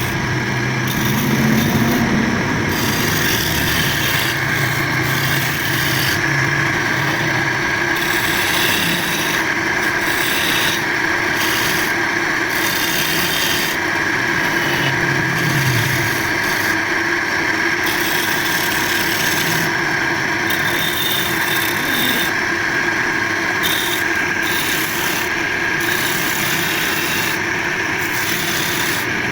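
Continuous rasping and scraping of a hand tool cutting into the wood of a charpai bed leg.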